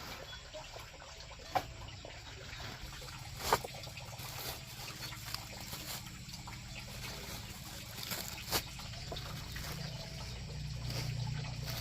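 Water trickling and splashing, with a few sharp knocks about two, four and nine seconds in, and a low rumble building near the end.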